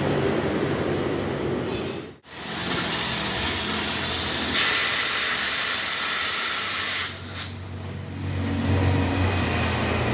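Car-wash equipment running: a loud spraying hiss for a couple of seconds in the middle, then a low steady motor hum near the end.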